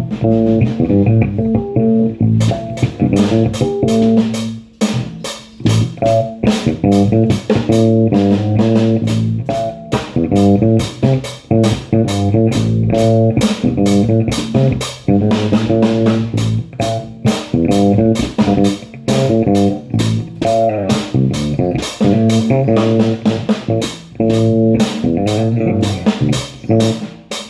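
Bass guitar and guitar playing a repeating pattern, with a drum kit coming in about two seconds in and keeping a steady beat.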